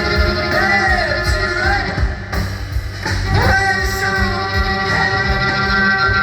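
Live band playing a slow jazz ballad with no words sung, a high melody line sliding between long held notes over bass and light drums.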